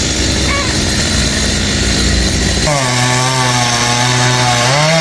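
Chainsaw running loud. Partway through it settles into a steady engine tone, which rises slightly in pitch near the end.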